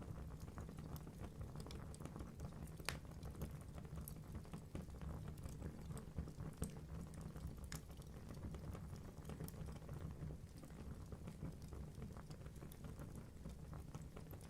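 Wood fire burning in a fireplace: a steady low rumble of flames with frequent small crackles and a few louder pops from the logs.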